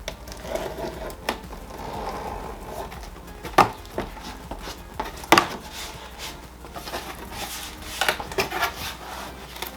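A cardboard product box being opened by hand on the floor: flaps and packing rustling and scraping, with several sharp knocks and clicks, the loudest about a third and halfway through.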